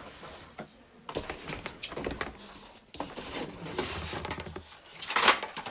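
Unboxing handling noises: packaging rustling and scraping with small clicks and knocks, and a louder rustle about five seconds in.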